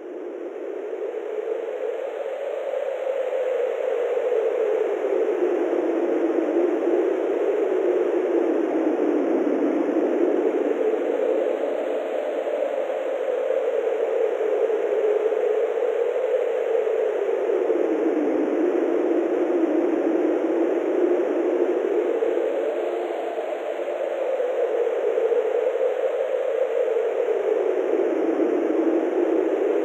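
Wind blowing steadily, a continuous rush whose pitch slowly rises and falls every few seconds, swelling in over the first few seconds.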